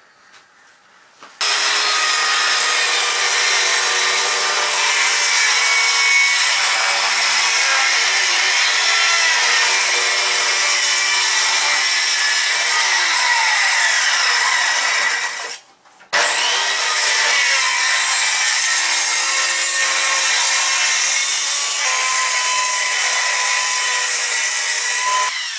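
Power saw cutting through a wooden beam, starting about a second and a half in and running steadily, with a brief stop near the middle before it cuts on until just before the end.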